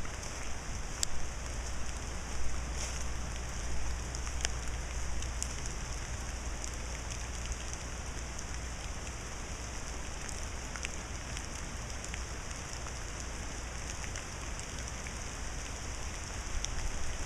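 Steady rain falling, with scattered louder drops ticking on nearby surfaces, more of them in the first few seconds; the rain is picking up a little.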